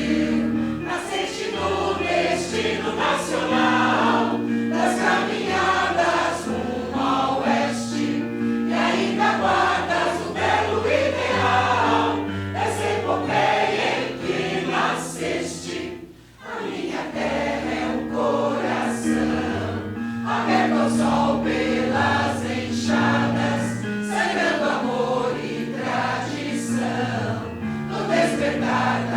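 A choir sings with electronic keyboard accompaniment holding sustained bass notes beneath the voices. About halfway through, the music briefly drops away, then the choir and keyboard come back in.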